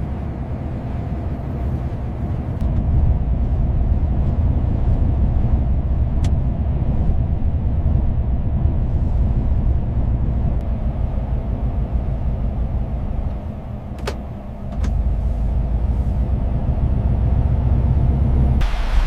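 A truck's engine and road noise, a steady low rumble that dips briefly about two-thirds of the way through. A few faint clicks sound over it.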